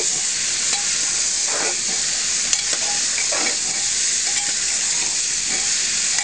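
Raw chicken pieces and onions sizzling as they fry in an open aluminium pressure cooker, with a steel ladle scraping the pot a few times as it stirs them.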